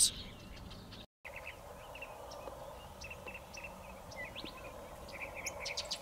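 Small birds giving short chirp and chip notes, some in quick runs of three or four, over a faint steady background hiss. The sound drops out briefly about a second in.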